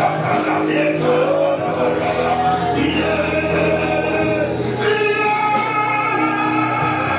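Gospel-style group singing with instrumental accompaniment.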